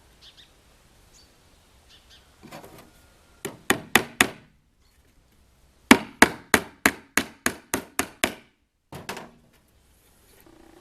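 Hammer driving nails into wood: four quick blows, a short pause, then a steady run of about eight blows, and a lighter tap or two near the end.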